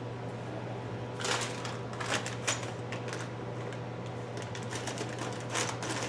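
Light clicks and rattles of small metal parts, a cluster about a second in and a few more near the end, over a steady low hum.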